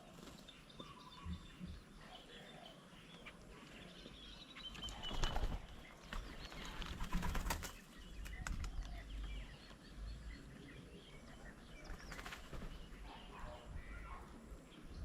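Birds at a feeding table: flurries of wingbeats as birds fly in and out, loudest about five and seven seconds in, with scattered chirps and calls throughout.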